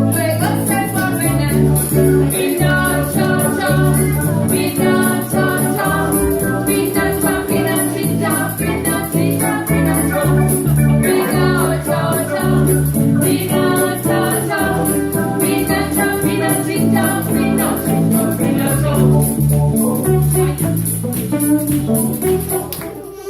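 Live band playing a lively song, with a steady, stepping bass line under guitar and light percussion. The music dies down near the end.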